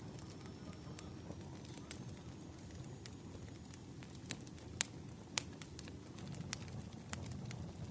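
Wood fire crackling: irregular snaps and pops, the sharpest a few around five seconds in, over a low steady rumble.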